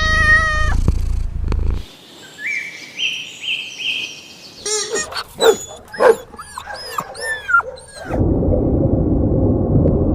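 Animal calls in quick succession, changing every few seconds. A drawn-out pitched call comes first, then a stepped series of high notes, then many short high calls one after another. A dense noisy stretch closes the run.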